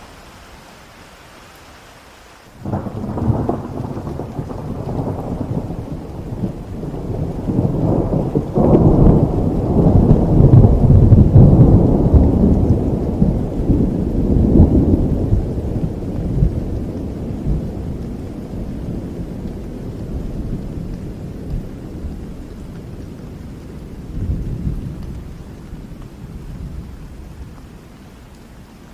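Thunderclap over steady rain: a sudden low rumble breaks in between two and three seconds in, with a sharp crack a few seconds later, swells to its loudest around ten seconds and then rolls away slowly, with a smaller rumble near the end.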